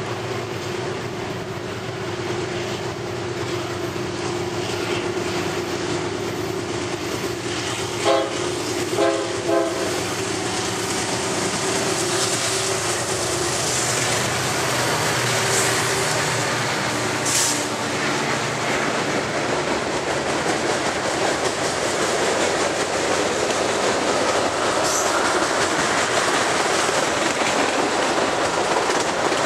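CSX freight train with several diesel locomotives approaching and passing close by, its horn sounding with three short blasts about eight to ten seconds in. The locomotives' engines and then the freight cars' wheels clatter over the rail joints, growing louder as the train goes by.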